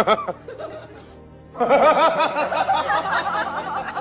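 Quick, rapid laughter starting about one and a half seconds in, over background music.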